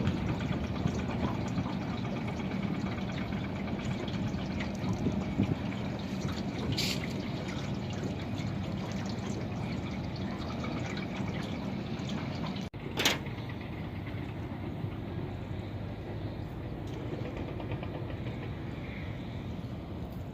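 Water sloshing and splashing around a small fishing boat, over a steady low hum, with one sharp knock about thirteen seconds in.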